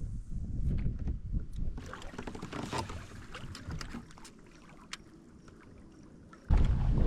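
Kayak under way on open water: wind rumbling on the microphone, with scattered small knocks and water splashes in the middle. It goes quieter for a couple of seconds, then the wind rumble comes back loud and sudden near the end.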